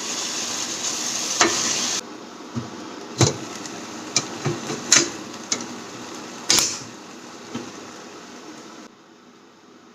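Steady sizzling of food frying, cut off abruptly about two seconds in; then a string of sharp knocks and clinks of kitchen utensils and cookware, about eight in five seconds, with the loudest near the middle.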